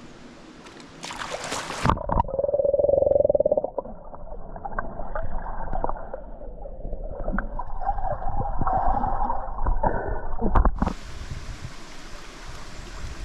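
A splash as the microphone goes under the stream water, then muffled underwater gurgling and bubbling with small knocks for about nine seconds. Near the end another splash, and the open-air rush of the stream returns.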